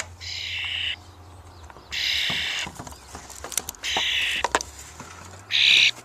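A nestling bird hidden in the roof peak gives four harsh, hissing calls about two seconds apart, with small knocks between them.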